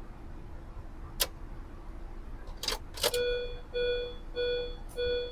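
A few sharp clicks as the ignition key is turned, then an electronic warning chime beeping steadily about twice a second; the starter does not engage.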